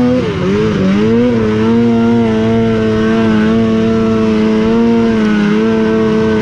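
Two-stroke snowmobile engine running at high revs under steady throttle. Its pitch dips and rises a couple of times in the first second or so, then holds nearly level.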